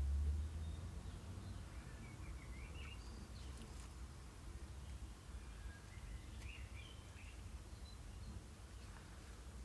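A few short, faint bird chirps in three small bursts a few seconds apart, over a quiet steady background, with a low rumble fading out right at the start.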